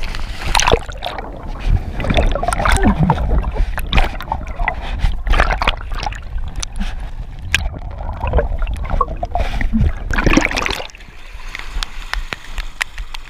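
Water splashing and sloshing around a kayak in fast-running floodwater, with many sharp splashes over a steady low rumble. It eases off about three-quarters of the way through.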